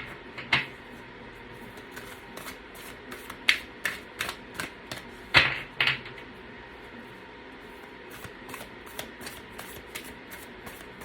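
Tarot cards being shuffled by hand: a run of irregular light taps and slaps of card on card, with a few louder snaps in the first half.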